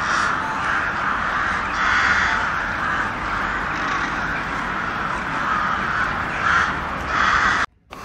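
Harsh, hoarse animal calls repeated about once or twice a second, ending in an abrupt cut near the end.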